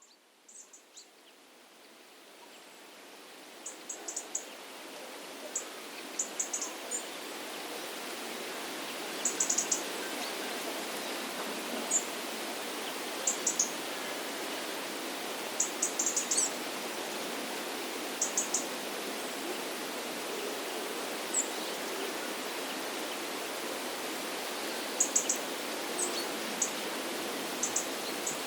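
Outdoor soundscape: a steady rush of running water fades in over the first several seconds and then holds. Small birds give short bursts of very high chirps every second or two above it.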